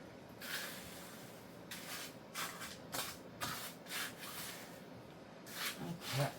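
A trowel smoothing wet concrete in a run of short, rough scraping strokes, the loudest near the end.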